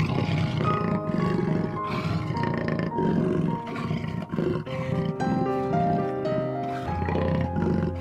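An animal's low, harsh calls, repeated several times over the first five seconds, over background music that runs throughout.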